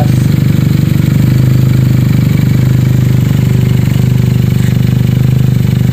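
Benelli 302S parallel-twin engine idling steadily through an Akrapovic exhaust on a twisted mid-link pipe, a deep, bassy note.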